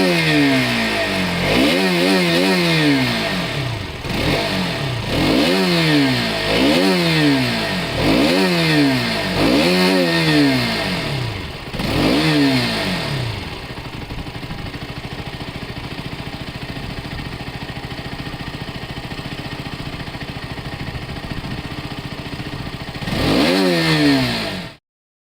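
Motorcycle engine revved in a series of quick throttle blips, each rising and falling in pitch, every second or two. It then settles into a steady idle, gets one more blip near the end and cuts off suddenly.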